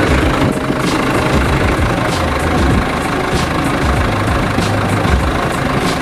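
An engine running at a steady idle.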